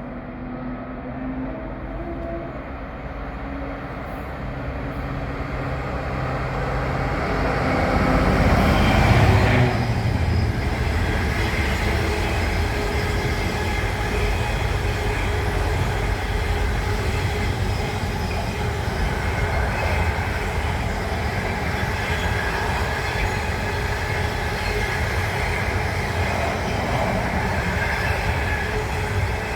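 Diesel-hauled freight train passing: the locomotive's engine grows louder as it approaches and is loudest about nine seconds in. After that comes the steady rumble of the wagons rolling by on the rails.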